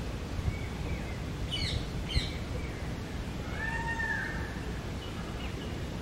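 Birds calling: two quick, sharp, falling calls about a second and a half in, then one longer arching call near four seconds. Under them runs a steady low outdoor rumble, with two brief low bumps.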